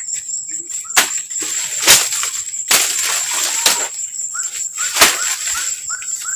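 Sharp knocks and rustling from pitching a tent, five loud knocks a second or so apart with a burst of rustling in the middle. Under them a steady high insect drone and short repeated rising chirps.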